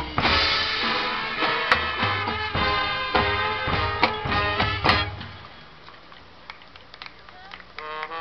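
High school marching band playing: the full band sounds loudly with sharp drum hits, then drops about five seconds in to a quiet passage with sparse percussion taps. Soft pitched notes come back in near the end.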